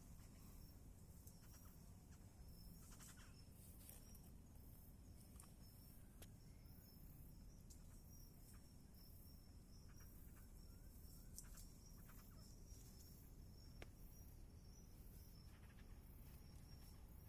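Near silence with a faint, steady high-pitched insect trill and a few soft clicks.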